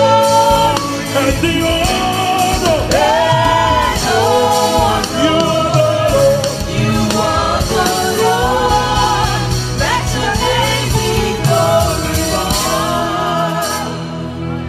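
Gospel worship song: a solo voice singing a slow, melismatic melody with held, bending notes over sustained keyboard-and-bass accompaniment.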